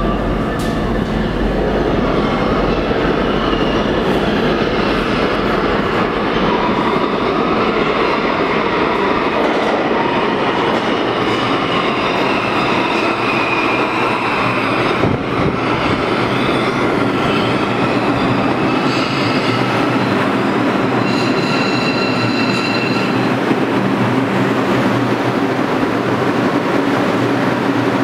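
Bombardier R142 subway train running into the station, with a steady loud rumble of wheels on rail, clattering and thin wheel squeals. Higher squealing tones stand out for a couple of seconds near the end.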